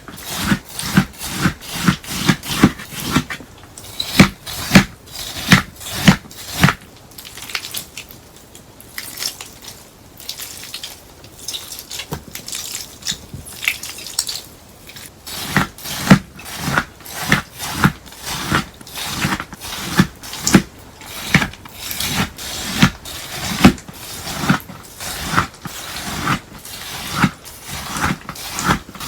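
Crunchy melamine-sponge slime squeezed and pressed by hand, giving crisp crunching squelches at about one and a half a second. A softer stretch of lighter crackling runs from about eight to fifteen seconds in before the loud crunching picks up again.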